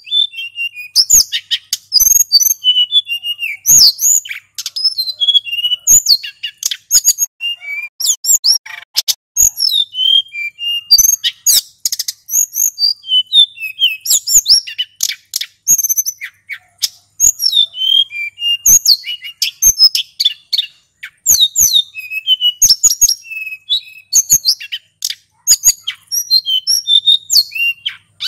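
Male sulingan gunung singing non-stop in a fast rolling run of high chirps, trills and short whistled notes.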